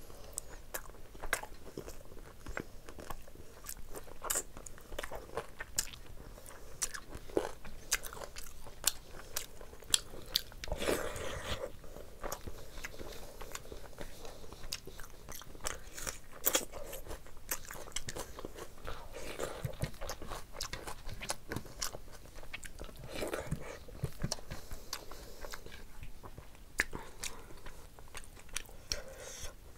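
A person eating rice and curry by hand, close to the microphone: steady chewing with wet mouth smacks and many small clicks, with fingers squishing rice into the curry.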